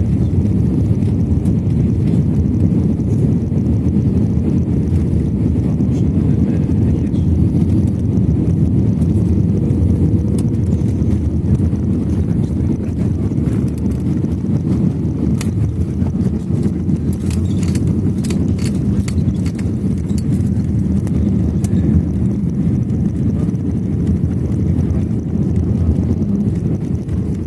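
Cabin noise of an Airbus A321 airliner during landing: a loud, steady low rumble, with a quick run of sharp clicks or rattles a little past the middle, easing slightly near the end.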